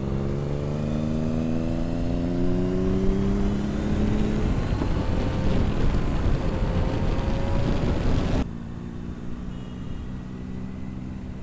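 Superbike engine accelerating hard, its pitch rising steadily for about four seconds, then running loud at speed with rushing wind. A little after eight seconds the sound drops suddenly to a quieter, steady engine running in traffic.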